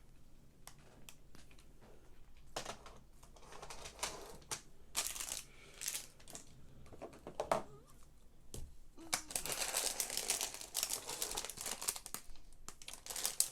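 Thin plastic Lego parts bag crinkling as it is handled and opened, with small plastic Technic pieces clicking and rattling in irregular bursts. The longest stretch of crinkling comes about two-thirds of the way through.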